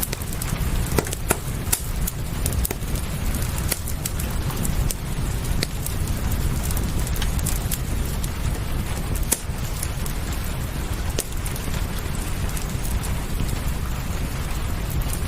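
Steady rain falling, with a wood fire crackling over it in irregular sharp pops.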